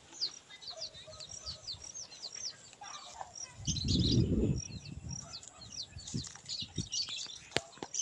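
Small birds chirping throughout in quick, short downward notes, with a brief low rush of noise about four seconds in.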